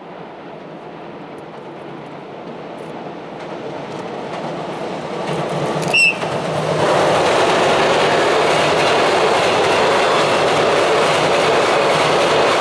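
Twilight Express sleeper train hauled by an EF81 electric locomotive approaching over a steel girder bridge, its rumble growing louder. About six seconds in the locomotive gives one short, high whistle blast, then the coaches pass with loud, steady wheel noise on the bridge.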